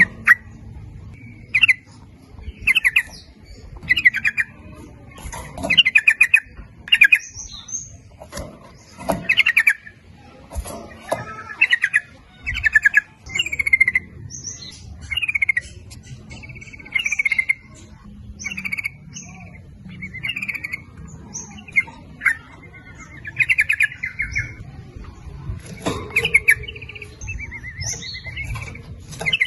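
Yellow-vented bulbul (trucukan) singing, short bubbly phrases repeated about once a second, used as a lure call.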